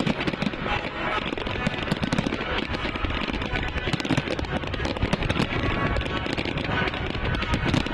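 Aerial fireworks bursting in a continuous, rapid barrage of overlapping bangs and crackles.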